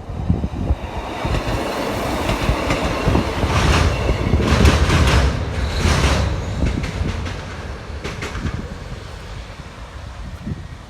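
A passenger train passing close by on the line, its wheels clacking over the rail joints: the sound builds to its loudest about halfway through, with a cluster of sharp clacks, then fades away.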